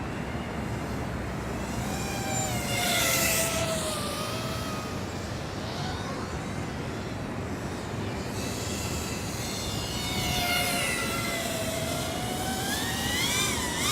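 Eachine Wizard X220 FPV racing quadcopter on a 4S battery ripping past in flight, its motor and propeller whine sliding down in pitch as it goes by, twice, then climbing again near the end.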